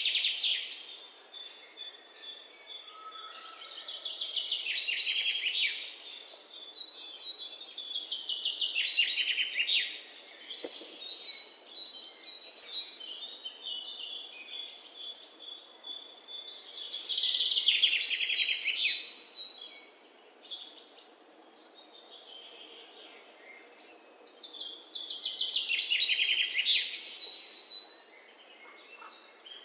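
Wild birds singing in rainforest: loud, rapid trilled song phrases recur every few seconds, with a steady run of repeated high notes from another bird between them.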